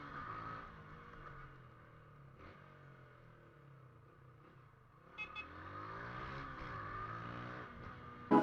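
A motorcycle engine revving, its pitch rising and falling; it fades about a second in and comes back louder from about five seconds in, just after a couple of short clicks.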